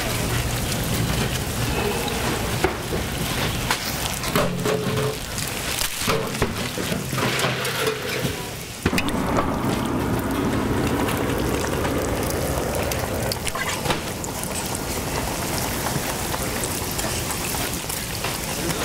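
Hotteok sizzling in shallow oil on a flat griddle, a steady crackling hiss, with a few sharp ticks. The hiss dips and then comes back abruptly about nine seconds in.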